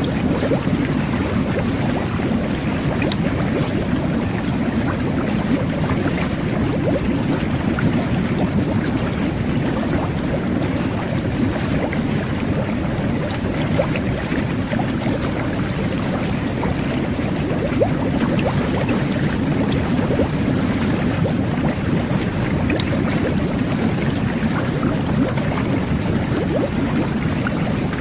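Whirlpool jet bath running: water jets churning and bubbling steadily, a low, even rush of water with small scattered pops.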